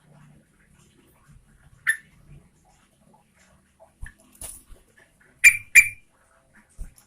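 Yellow-vented bulbul (trucukan) giving a few short, sharp calls: one about two seconds in, then a louder quick pair later on.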